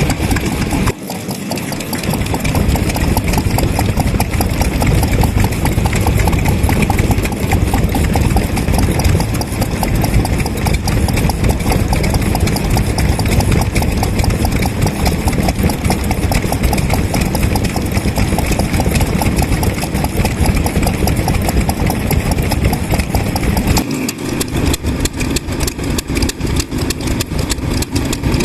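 Vintage kerosene stationary engines running with a steady, rapid firing beat; the sound changes abruptly about a second in and again near the end.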